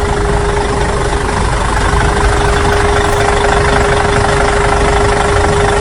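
Truck engine sound effect running steadily, with a constant hum through it, as the cartoon truck drives on.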